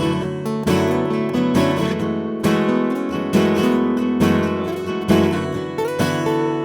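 Acoustic guitar strummed in a steady rhythm, with accented strokes about once a second: an instrumental passage between sung verses of a song, with no singing.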